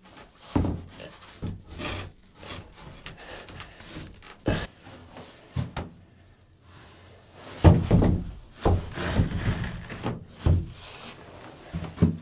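Wooden cabin panels knocking and rubbing as they are handled and set into place, a string of irregular thumps and scrapes with the heaviest knocks about two-thirds of the way through.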